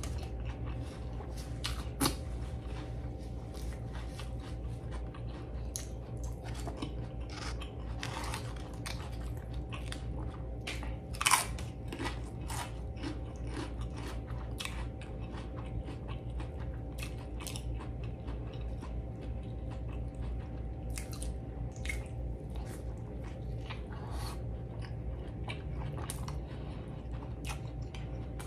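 Close-miked chewing of a smash burger: wet mouth clicks and smacks throughout, with two louder bite sounds, about two seconds in and around the middle.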